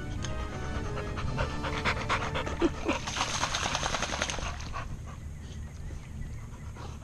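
Dog panting rapidly, with a brief rush of noise about three seconds in.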